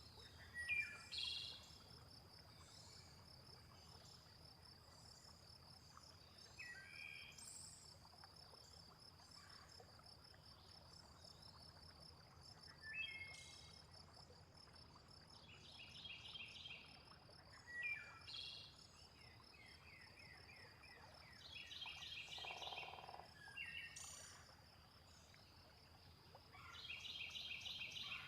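Faint looped nature ambience: a steady pulsing insect trill runs throughout, with bird calls and quick repeated chirps every few seconds over a low, even wash of water-like noise.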